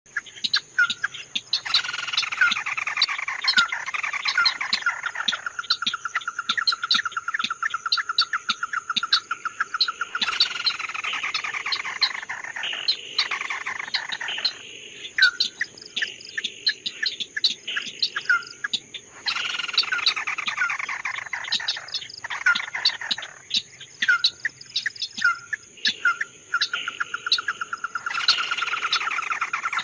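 A songbird, the one known in Vietnamese as 'chim mắt đỏ' (red-eyed bird), singing: sharp repeated notes and a falling trill that settles into a fast, even trill. The phrase comes back about every nine seconds, over a steady high insect drone.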